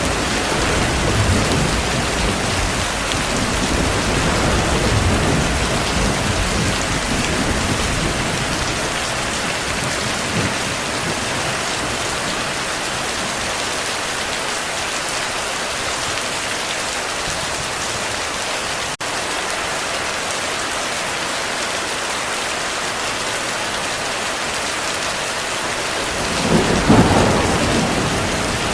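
Heavy rain falling steadily, with thunder rumbling low through the first several seconds and a louder roll of thunder near the end.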